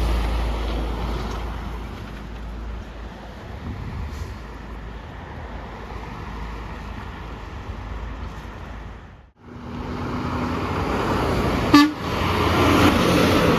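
Road noise and deep rumble of a passing truck, fading away, then a short break in the sound about nine seconds in. A brief horn toot about twelve seconds in is followed by rising traffic noise.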